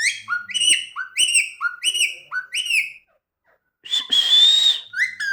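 Pet parrot whistling a repeated two-note phrase, a short low note then a higher falling note, about four times over the first three seconds. After a short pause comes one harsh screech about four seconds in, and the whistling starts again near the end.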